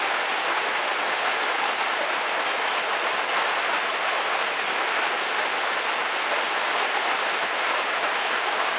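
Heavy rain falling steadily on a car's roof, heard from inside the car: a dense, even hiss with a few faint drop ticks.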